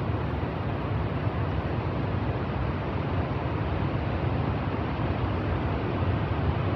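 Niagara Falls' falling water: a steady, even rush with most of its weight in the low range.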